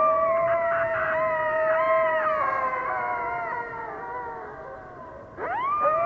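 Several coyotes howling together in long, overlapping, wavering howls at different pitches that slowly sink and fade. A fresh howl swoops upward near the end.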